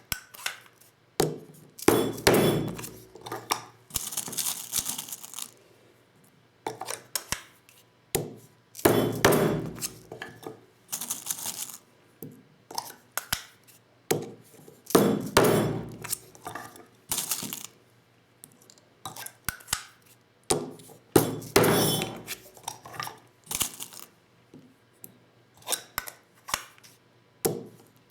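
Clinks and knocks of a Lee Loader hand reloading set and 12-gauge shotgun hulls being worked by hand, in clusters about every six seconds with single clicks between.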